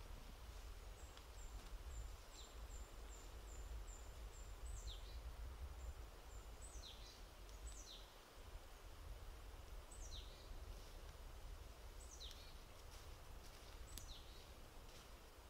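Small woodland birds calling, thin and very high: a quick run of short repeated notes, then single calls sliding down in pitch every second or two, over a faint low rumble.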